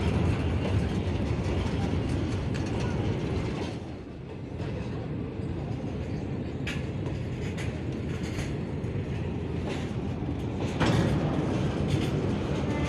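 Train running on the rails: a steady rumble from the wheels and cars, with scattered sharp clanks, the loudest near the end.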